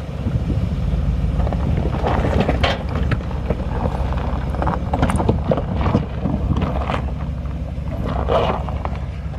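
Ford F-150 pickup on a loose dirt and rock trail: a steady low engine and tyre rumble with irregular crunches and snaps of rock and gravel under the tyres.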